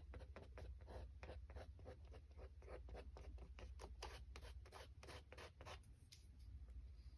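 Paintbrush scratching across watercolor paper in quick, faint strokes, about five a second, stopping about six seconds in.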